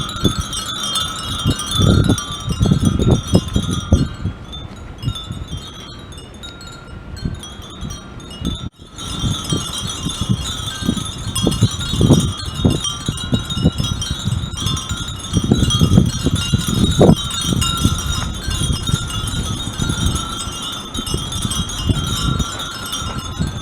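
Many Japanese furin wind chimes tinkling together continuously, a dense, steady shimmer of high ringing tones. Irregular gusts of low rumbling run underneath, and the sound dips briefly about nine seconds in.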